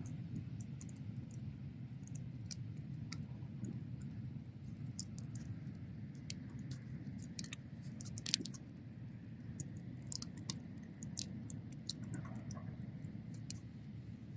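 Bonfire crackling: irregular sharp pops and snaps of burning wood over a steady low rumble.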